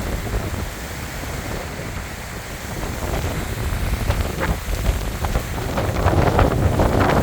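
Strong gusty sea wind buffeting the microphone as a rumbling roar that eases a little early and builds again toward the end, in the aftermath of a typhoon.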